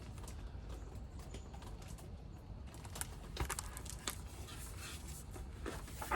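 Quiet room tone with a steady low hum and a few scattered soft clicks, spaced irregularly through the pause.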